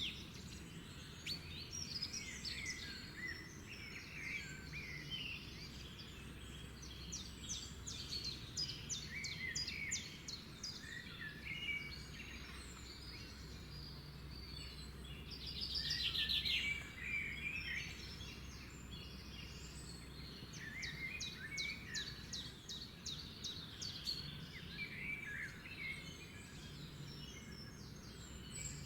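Several wild birds chirping and singing in short whistled phrases and rapid trills, with one louder trill about halfway through, over a steady low background noise.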